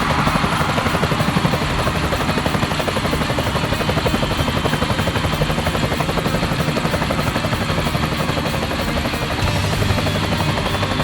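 Monster truck engine sound effect running with a rapid, steady, rumbling pulse.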